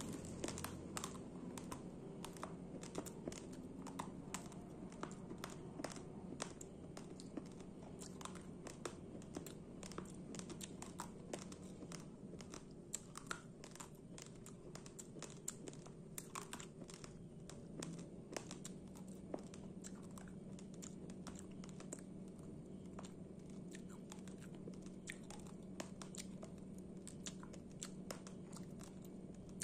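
Raw red rice grains crunched between the teeth, close to the microphone: a dense, irregular run of small sharp cracks and clicks.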